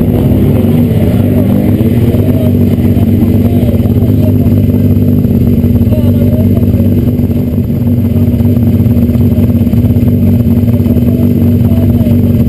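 Peugeot 206 rally car's engine idling loudly and steadily as the car rolls up and sits stationary.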